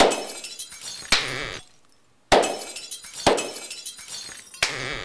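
Hand claps triggering sampled sound effects from a computer sampler: five sudden crashes about a second apart, each with a ringing, shattering tail, different samples for different clap types.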